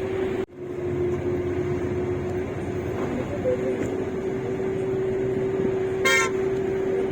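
Steady engine and road drone inside a moving bus, with a constant hum under it. The sound drops out for an instant about half a second in, and a vehicle horn gives one short toot about six seconds in.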